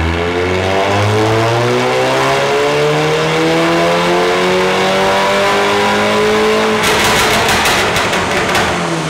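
VW Fusca (Beetle) 200 TSI's turbocharged 2.0 four-cylinder, with a downpipe and cat-back exhaust, on a chassis dyno. It makes a full-throttle pull, its note rising steadily for about seven seconds. Then the throttle closes and the exhaust crackles with a rapid run of pops as the revs fall.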